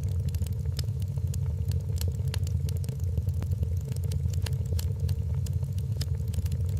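Wood fire crackling in a fireplace: frequent sharp, irregular pops and snaps over a steady low roar of the flames.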